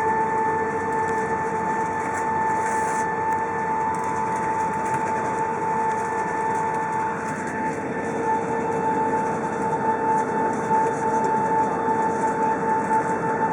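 Airbus A380 cabin noise while taxiing after landing: a steady whine over a broad hiss and rumble.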